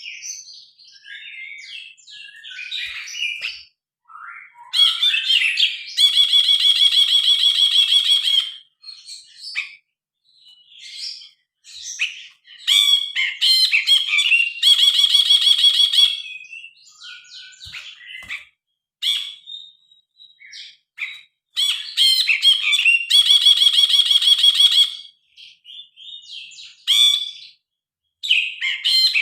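Cinereous bulbul (brinji kelabu) singing loud, varied chirping phrases. Three times a phrase runs into a fast, even trill of about two seconds.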